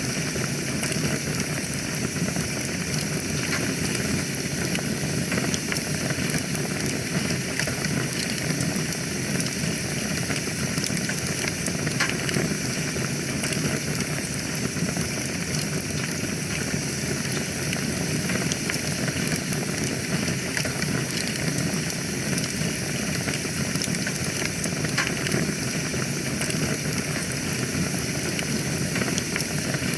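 Wood fire burning in a fireplace: a steady low rumble and hiss, with scattered sharp crackles and pops.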